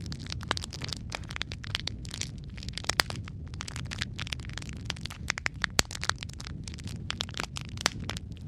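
Wood logs burning in a fireplace: a steady low rumble of flame under dense, irregular crackling and popping, with a few sharper pops, the loudest about three seconds in and near six seconds.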